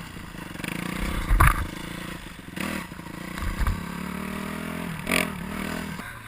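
Four-stroke off-road engine running and revving, with a couple of loud low thumps, one about a second and a half in and another past the halfway point.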